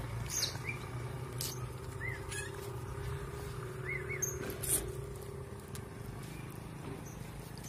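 Birds giving short chirps and a few sharp, brief calls, spaced irregularly, over a steady low hum.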